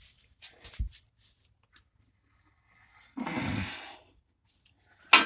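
Handling noises around a freshly assembled engine: a few soft knocks and a dull thump, a short breathy exhale or rustle, then one sharp metallic clank with a brief ring near the end.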